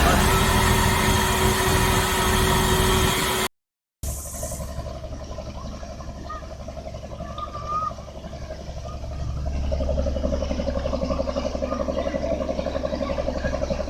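Drilling rig machinery running loud and dense, cut off abruptly by a short gap, then a steadier diesel engine drone with a fast, even pulsing, which swells slightly about two-thirds of the way through.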